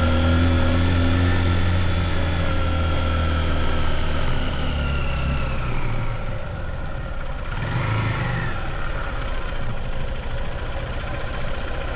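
Motorbike engine running at low speed, its steady note easing off about six seconds in.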